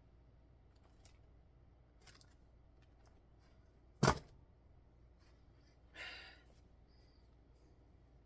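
Faint handling sounds of cross-stitching: a single sharp click about four seconds in and a short rustle a couple of seconds later, with a few faint ticks between.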